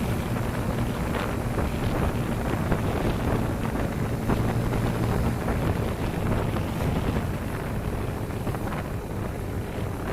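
Wind buffeting the microphone on a moving motorcycle, with the engine's steady hum underneath.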